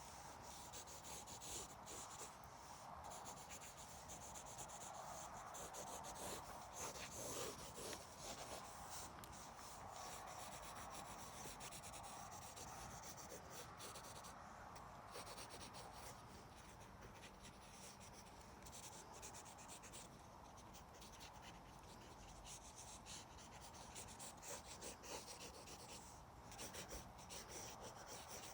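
Faint pen scratching and rubbing on paper in quick, loose sketching strokes.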